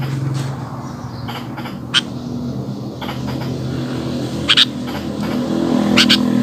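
A sooty-headed bulbul gives a few short, sharp chirps, one about two seconds in, a pair near the middle and another pair near the end. Under them a steady low engine hum runs throughout.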